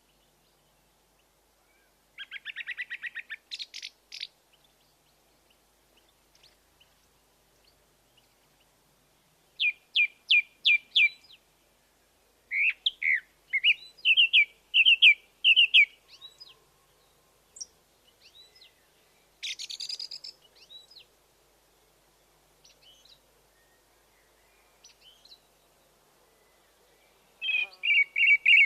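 Wild birds chirping in short phrases of quick, high repeated notes, with quiet pauses between the phrases.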